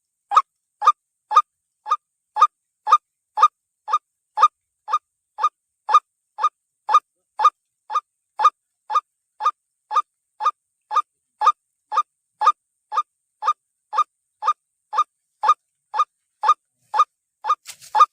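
White-breasted waterhen 'kruak' calls repeated evenly, about twice a second, each one a short nasal note with dead silence between. They sound like a looped recording played as a trapping lure.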